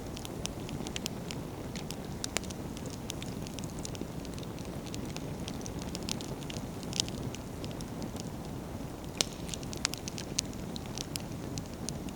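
Wood campfire burning, with a steady low rumble of flame and frequent sharp crackles and pops of firewood, a few louder pops scattered through.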